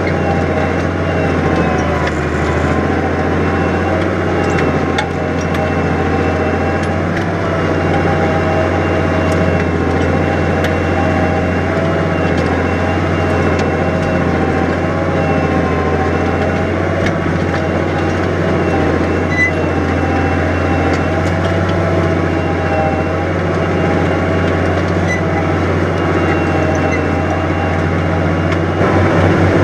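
New Holland 100-90 tractor's six-cylinder diesel engine running steadily under load while pulling a plough through heavy wet ground. It gets slightly louder near the end.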